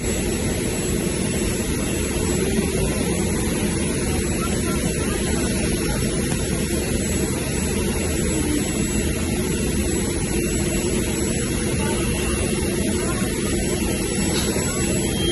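Steady drone of an aircraft engine running, with a faint high whine above it.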